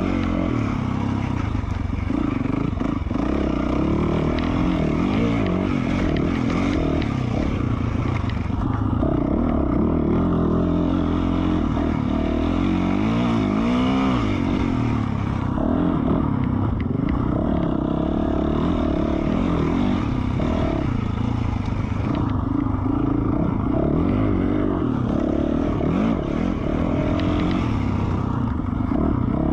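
2020 Yamaha YZ450F dirt bike's 450 cc single-cylinder four-stroke engine, fitted with an FMF Q4 slip-on exhaust, being ridden on trail: the engine revs rise and fall continually as the throttle is opened and rolled off, with several short throttle-offs.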